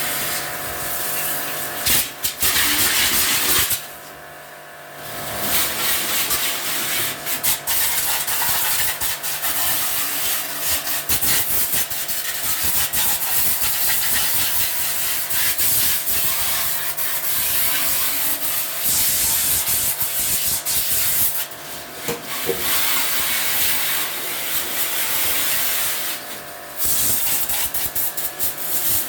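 A water jet spraying in a steady loud hiss, as in washing down a window air conditioner during service, with a steady machine hum underneath. The spray cuts out for about a second several times, the longest drop about four seconds in.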